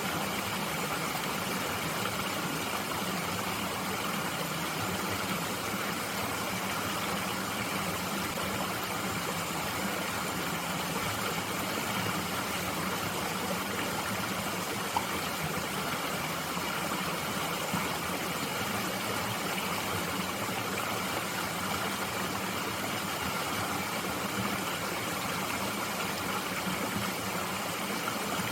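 A mountain stream flowing steadily, an even rushing babble of water over rocks.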